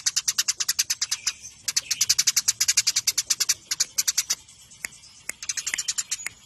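Eurasian tree sparrows chirping in fast, dense rapid-fire strings of about ten sharp chirps a second, the excited chatter of sparrows squabbling. The chirping breaks off briefly about a second and a half in and pauses for about a second near the middle before starting again.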